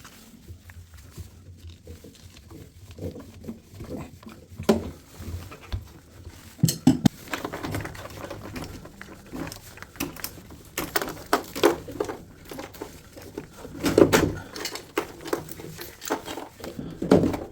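Irregular clinks, knocks and rattles of hand tools and washing-machine parts being handled while the drum washer is taken apart, growing busier about seven seconds in, with the loudest clatter near the end.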